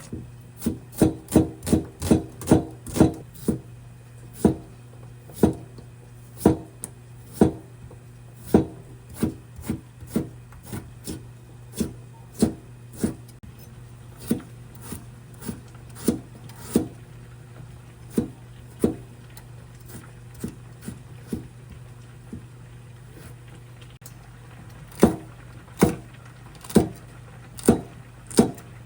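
Knife chopping on a wooden cutting board: a quick run of sharp knocks, then slower single strokes, and another short run near the end.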